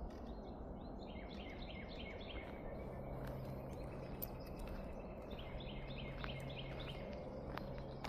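A small bird singing two runs of quick repeated notes, the first about a second in and the second about five seconds in, over steady outdoor background noise and a low, even hum.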